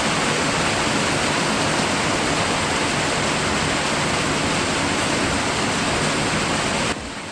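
Torrential rain pouring down at night as a loud, steady, even hiss. It cuts off suddenly near the end.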